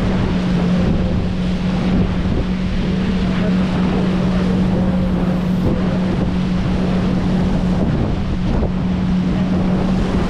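Motorboat engine running steadily at speed, a constant hum, with wind buffeting the microphone and water rushing.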